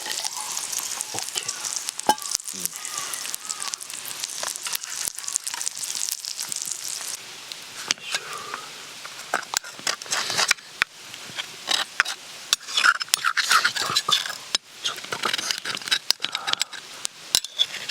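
Food sizzling in a frying pan while a utensil clicks and scrapes against the pan. The sizzle is steady at first; from about eight seconds in, the clicks and scrapes come thick and fast.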